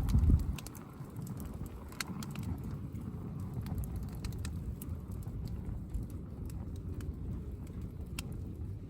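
Wood campfire crackling, with scattered sharp pops over a steady low rumble; a louder low thump just after the start.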